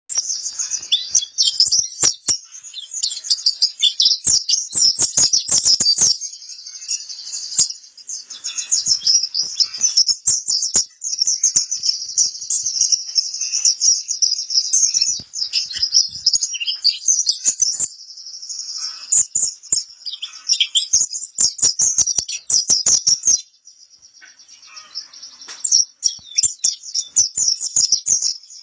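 A white-eye (pleci kapur) singing a fast, high-pitched twittering song that runs on almost without a break, dipping into a short lull near the end. Sharp clicks are scattered through it.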